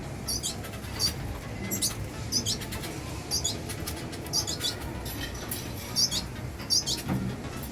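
Red siskins giving short, high-pitched squeaky calls, about one a second, with light clicks and rustles of movement between them.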